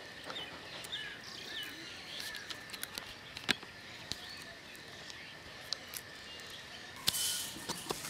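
Quiet outdoor ambience with short, faint bird chirps, mostly in the first two seconds. A few sharp clicks come from a plastic bird carrier being handled at a wire cage, with a brief rustle near the end.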